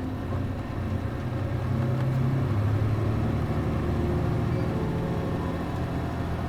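City bus's MD92TJ diesel engine heard from inside the passenger cabin, pulling under load. Its note rises and grows louder over the first couple of seconds, then holds steady, with road noise around it.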